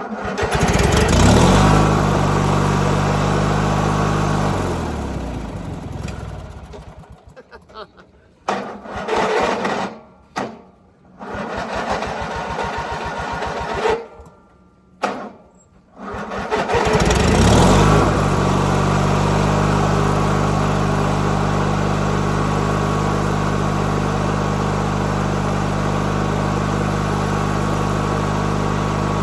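1997 MTD Yard Machines riding mower engine hard-starting: it fires about a second in and runs for a few seconds, then slows and dies. It is cranked over in several short tries, catches again near seventeen seconds and settles into steady running.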